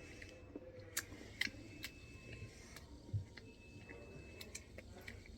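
Sharp snaps and clicks, a few scattered over several seconds, from people biting into and chewing a thick milk chocolate bar that is hard to bite.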